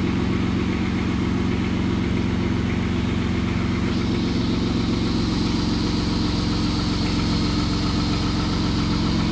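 Honda Pilot's 3.5-litre V6 idling steadily, heard close up with the hood open.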